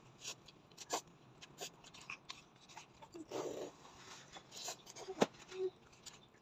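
Close-up eating and food-handling sounds: irregular small clicks, taps and rustles, with a denser rustle for about half a second roughly three seconds in and a sharp click a little after five seconds.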